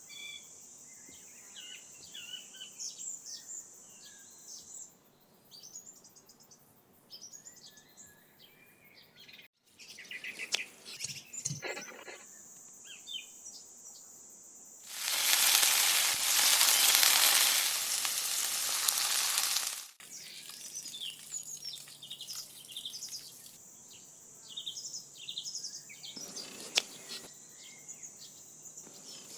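Birds chirping over a steady high-pitched insect drone. Midway, about five seconds of loud sizzling from frying cut in, then the birds and insects return.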